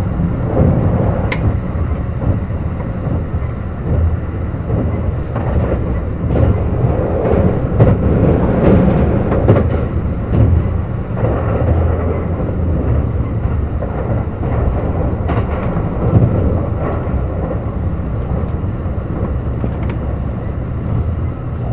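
Running noise of a Kintetsu 21000-series Urban Liner Plus limited express heard on board: a steady rumble of wheels on rail with a few faint clicks.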